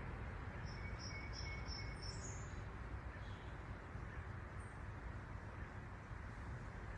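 Woodland outdoor ambience: a steady hiss with a low rumble, and a bird giving a quick run of four or five high chirps about a second in, then a couple of single high notes.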